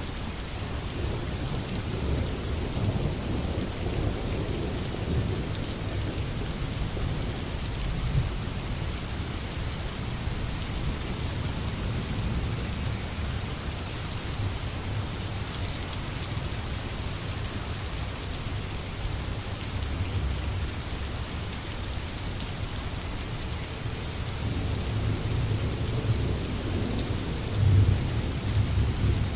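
Steady rain falling, with low rolling thunder rumbling underneath that swells near the end.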